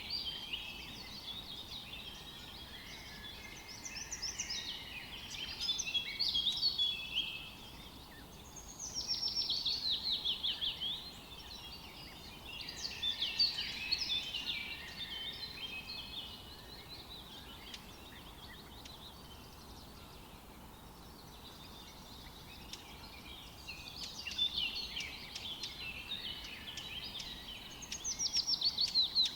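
Songbirds chirping and singing in bursts of high notes. A fast trill of down-sweeping notes comes about nine seconds in and again near the end, with a quieter lull in the middle.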